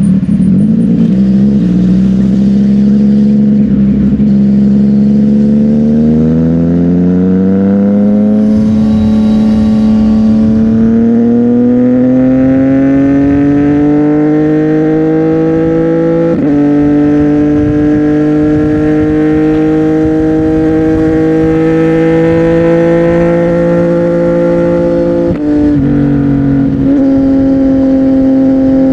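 CFMOTO 675NK inline-three engine running through a Burnout titanium aftermarket exhaust. Its pitch climbs slowly and evenly for about ten seconds, then holds steady, with a brief dip and recovery near the end, as at a gear change.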